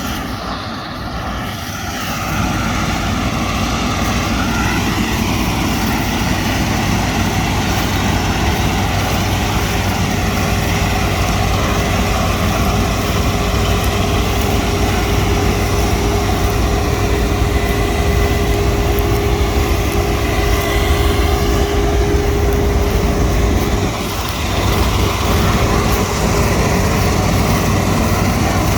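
Heavy farm machinery at work, its diesel engine running steadily, with a steady whine through the middle part. The loudness dips briefly near the end.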